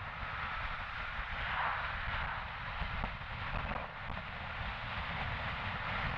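Steady wind rush with motorcycle engine and road noise from a bike riding along at speed.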